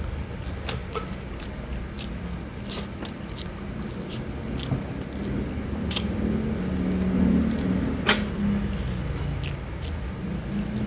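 Close-up mouth sounds of a man eating rice and boiled pork by hand: chewing with wet smacks and lip clicks, the sharpest click about eight seconds in. A steady low hum runs underneath.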